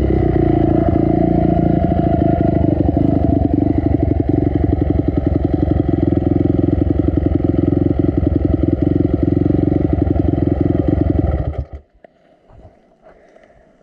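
Dirt bike engine running steadily, then cutting out abruptly near the end, leaving only faint ticks and clatter.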